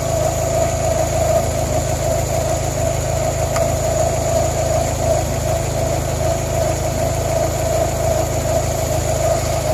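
Toyota Corolla four-cylinder engine idling steadily at operating temperature while its cooling system is being bled, with a steady mid-pitched whine over the idle.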